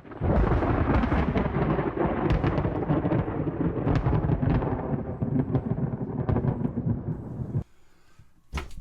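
Electric bass guitar played loud through an amp and speaker cab: a dense run of low, heavy notes that cuts off abruptly about seven and a half seconds in. A short knock follows near the end.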